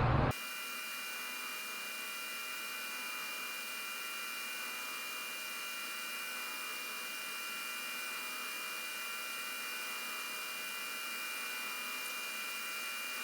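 Steady electrical hum and hiss with a few faint, steady high-pitched tones, unchanging throughout, cutting in abruptly and cutting off abruptly.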